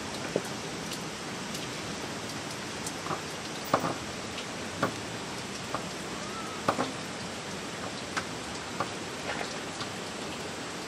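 Rain falling: a steady wash of noise with scattered sharp drops ticking irregularly, about one a second, a few louder ones near the middle.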